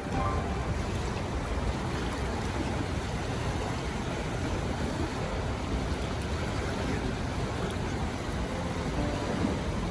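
Rough lake waves washing and breaking, with strong wind blowing on the microphone as a steady low rumble.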